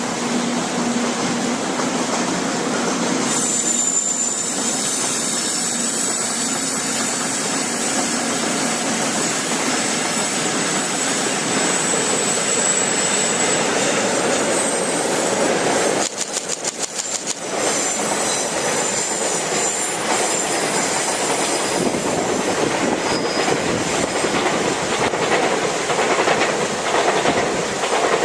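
Freight train hauled by EF64 electric locomotives rolling past with a steady rumble and wheel clatter. A high-pitched wheel squeal runs through roughly the first half, and a quick run of clacks over rail joints comes a little past the middle.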